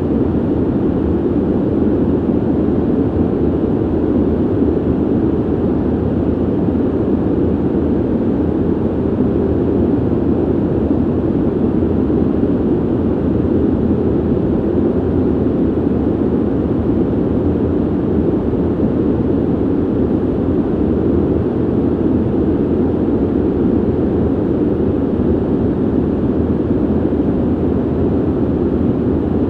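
Ventilation system's air rushing in a steady, deep hum-like noise that never changes in level.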